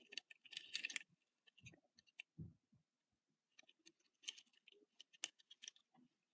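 Faint, scattered clicks and light knocks of small plastic toys being handled: Hot Wheels cars and a car wash playset, with a couple of soft thuds early on and a busier run of clicks later.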